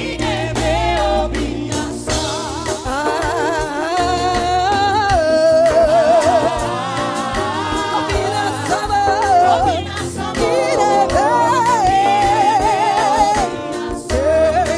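Live gospel worship music: a lead singer holding long, wavering sung notes with backing singers, over keyboard chords, bass and drums.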